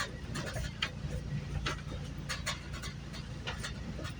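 Inside a GO Transit commuter train coach in motion: a steady low rumble with a faint hum. Short irregular clicks and rattles come through it several times.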